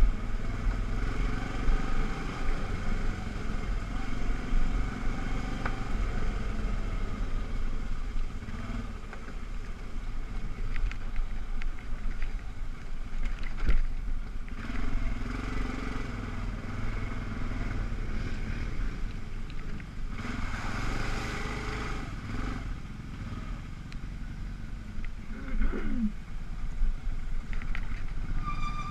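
ATV engine running steadily while riding, with a low rumble that swells briefly about two-thirds of the way through.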